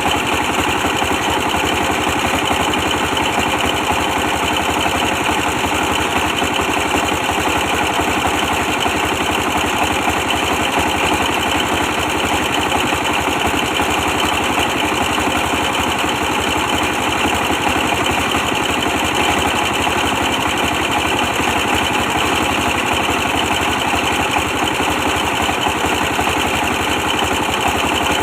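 Old 24-horsepower diesel engine running steadily with a fast, even chugging, powering a brick-press machine.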